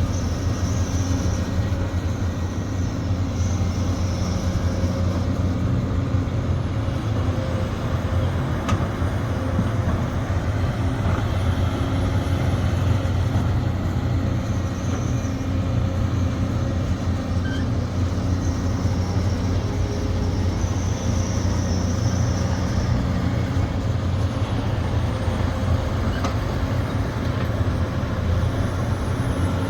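Sumitomo SH370LHD-6 excavator's diesel engine running steadily with a low drone. A faint high whine rises and falls away several times over it.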